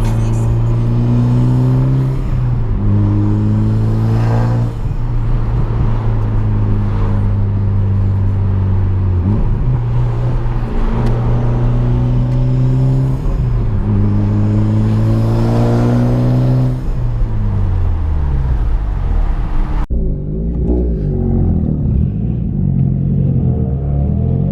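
Car engine running under way, its pitch holding steady and then falling and rising again several times as the car slows, shifts and accelerates.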